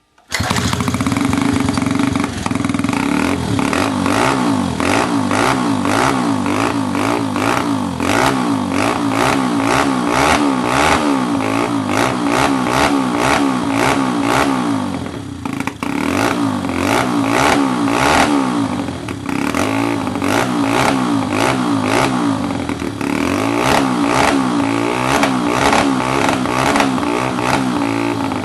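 Small motorcycle engine revving up and down over and over, the pitch rising and falling every second or so, with brief drops in revs around the middle.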